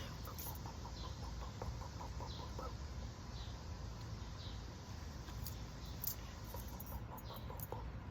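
Faint bird calls: short chirps repeating every second or so, with brief clucking notes in the first few seconds, over a steady low rumble.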